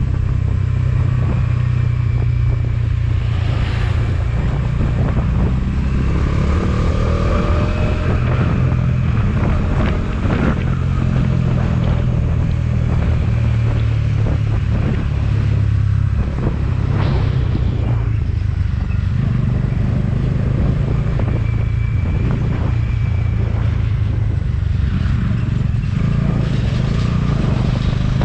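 Motorcycle engine running steadily while riding, a constant low engine hum with road noise. A few brief higher-pitched tones and short swishes come and go over it.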